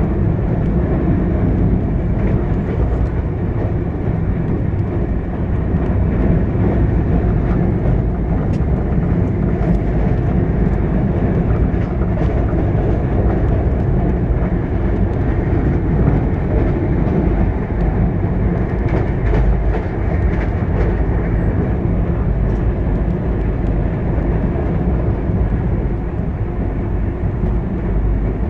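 Express passenger train running at speed, heard aboard a coach: a steady, loud rumble of wheels on the rails, with faint scattered clicks.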